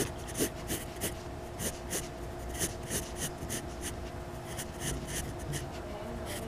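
Short, quick sketching strokes scratching across a drawing surface, several a second and uneven in rhythm, over a faint steady hum.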